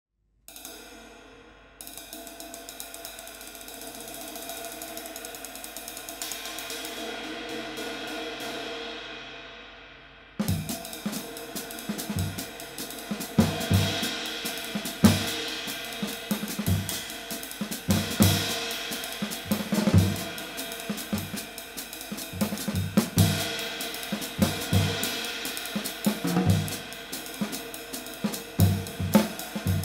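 Handmade 20-inch B20 bronze trash ride cymbal, light weight (1792 g), played alone: one strike, then a fast-played wash that swells and fades away. About ten seconds in it changes abruptly to a drum-kit groove, the cymbal ridden over bass drum and snare.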